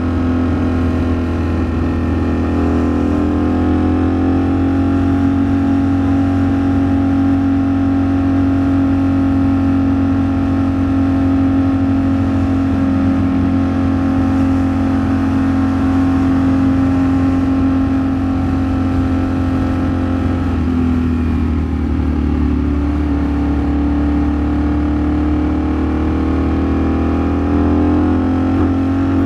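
Ducati Streetfighter V4 S's 1103 cc V4 engine running at steady highway cruise under wind rush, recorded on board. The engine note eases a little about two-thirds of the way through, then climbs again.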